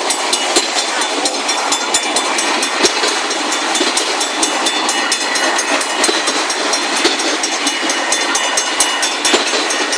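Long freight train passing close by at a grade crossing: a steady rumble of wheels on rail with many irregular clicks and knocks from the rail joints.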